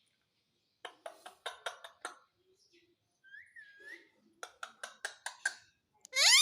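Parrot chattering in two quick runs of short, clipped notes, with a short whistled note between them, then a loud rising whistle near the end.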